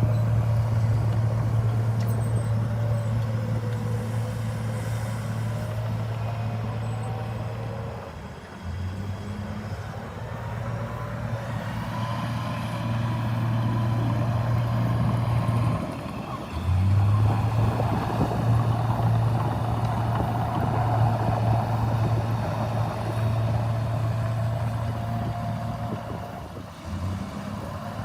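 Heavy diesel earthmoving machine running with a steady low drone. The drone dips briefly about eight seconds in, again around sixteen seconds, and near the end, and a wavering higher whine runs above it.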